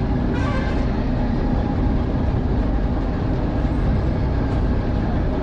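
Steady low rumble of a road vehicle and road noise, with a brief higher tone about half a second in.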